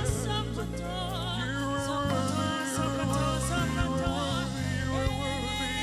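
Live gospel worship music: voices singing and holding wavering notes over steady instrumental accompaniment.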